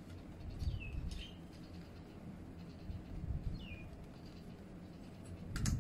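A bird calling: short falling chirps, two close together about a second in and one more a few seconds later, over a low steady background rumble. A short knock comes just before the end.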